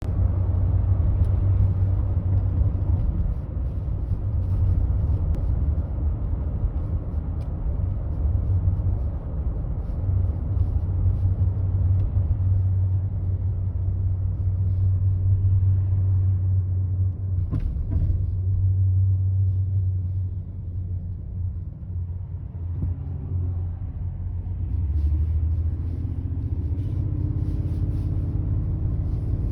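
Ford F-150 driving at low speed with a steady low rubbing, whirring noise from the driver's-side wheel, a noise that shows up at 40 mph and under whether or not the brake is applied.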